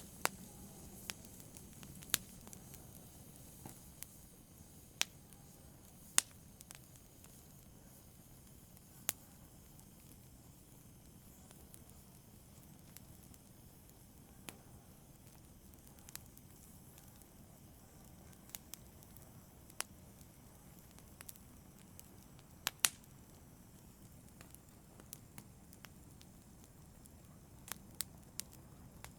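Wood fire crackling: a low steady rush of flame with irregular sharp pops and snaps, the loudest about six seconds in and twice about twenty-three seconds in.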